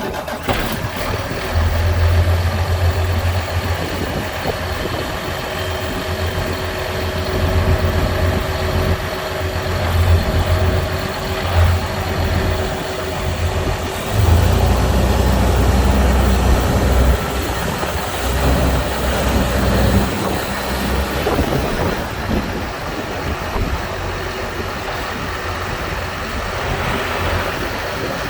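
2012 Versatile 305 MFWD tractor's diesel engine running steadily at idle, its low note swelling louder for a few seconds about halfway through.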